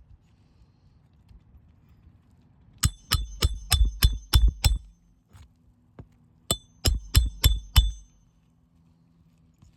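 Hammer driving roofing nails back into asphalt shingles: a run of seven quick, ringing metal blows, a pause of under two seconds, then five more, about three a second.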